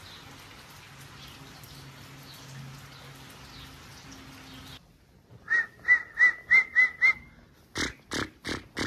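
Steady rain-like hiss with a faint low hum, which cuts off abruptly. Then comes a quick run of six short rising whistles, about three a second, followed by four sharp sounds.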